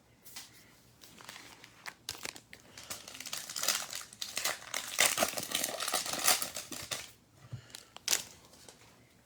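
Plastic card wrapper crinkling and tearing as a pack of football trading cards is unwrapped by hand, busiest in the middle with a few sharp crackles near the end.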